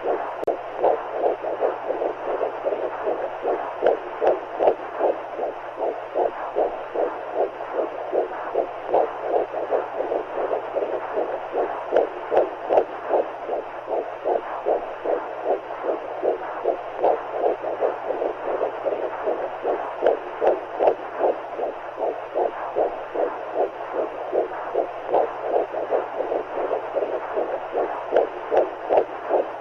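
Womb sound for soothing a baby: a steady, even heartbeat pulsing through a whooshing wash of fluid noise, with a low hum underneath.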